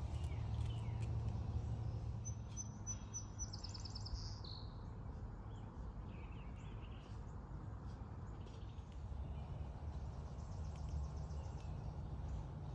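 Songbirds singing outdoors over a steady low rumble: a rapid high trill about two seconds in that ends in a falling note, softer chirps a few seconds later, and another faint trill near the end.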